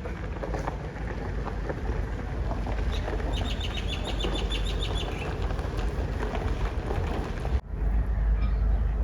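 Outdoor ambience: a steady wind-like rumble, with a bird's rapid trill of evenly repeated high notes lasting about two seconds, a third of the way in. Near the end the sound cuts abruptly and resumes with a heavier low rumble.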